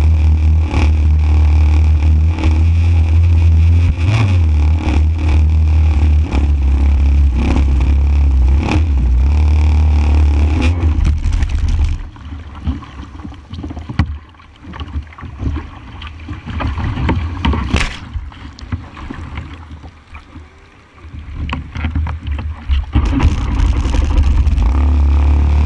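JetSurf motorised surfboard's two-stroke engine running steadily, with rushing wind and water noise. About halfway through the engine sound drops away, leaving quieter wind and water for about ten seconds, then it comes back loud near the end.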